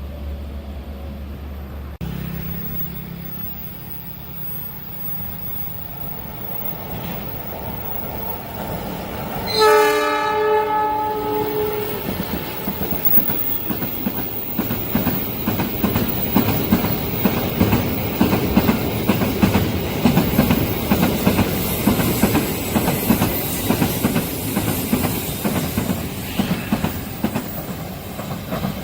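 A train horn sounds once for about two seconds, about ten seconds in. Then a long train passes close by, its wheels clattering rhythmically over the rail joints, growing louder as the cars go by.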